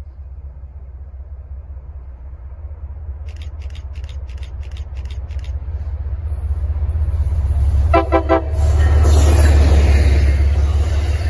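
MBTA commuter rail train approaching and passing close by, its low rumble building as it nears. The locomotive's horn gives one short blast about eight seconds in, followed at once by the loud rush of the locomotive and bi-level coaches going past. A brief run of faint high pulses sounds a few seconds in.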